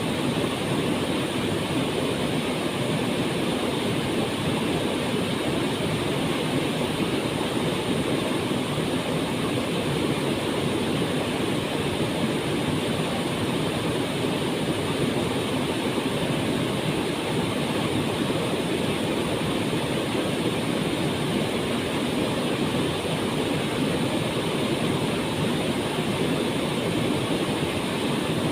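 We'e Kacura waterfall: a steady, unbroken rush of falling water.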